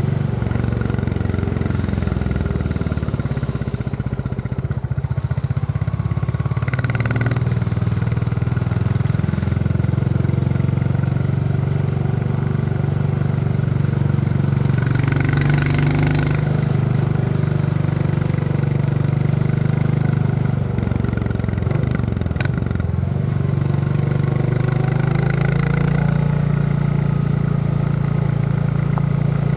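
Royal Enfield Classic 350's single-cylinder engine thumping under way, its pitch shifting several times as speed and throttle change.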